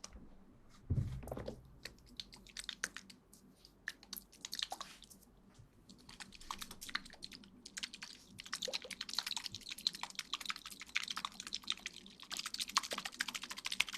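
Close-miked ASMR crackling and rustling: dense, irregular soft clicks that thicken in the second half, with a single low thump about a second in.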